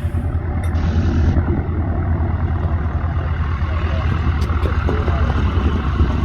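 Steady low rumbling noise with no clear engine tone, and a brief hiss about a second in.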